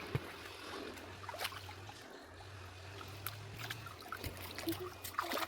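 Faint water trickling, with scattered small splashes and clicks over a steady low hum.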